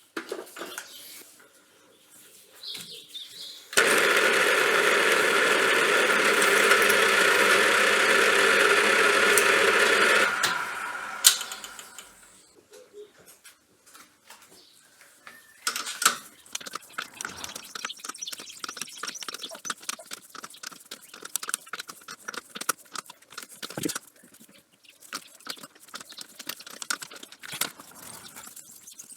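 An electric workshop machine starts suddenly, runs loud and steady for about six seconds, then is switched off and spins down over a couple of seconds. After that come many small clicks and light rattles of metal parts being handled.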